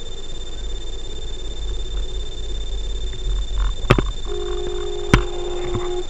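Car cabin noise from a dashcam while driving: a steady low engine and road rumble under a faint high electrical whine. There are two sharp clicks about four and five seconds in, and a steady pitched tone sounds for almost two seconds near the end.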